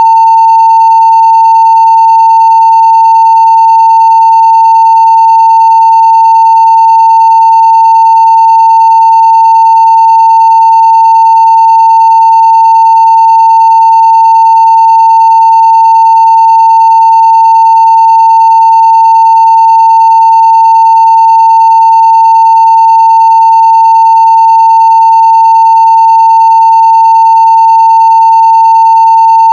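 Continuous 900 Hz sine-wave test tone at full level (0 dB), steady and unchanging, with faint overtones above it.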